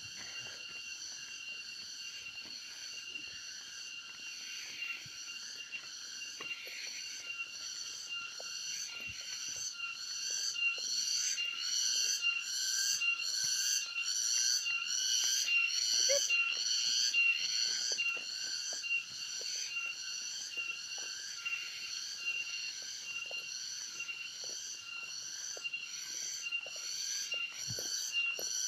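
High, pulsing insect chorus, typical of cicadas, with a steady thin whine beneath the beat of roughly one to two pulses a second; it grows louder about ten seconds in.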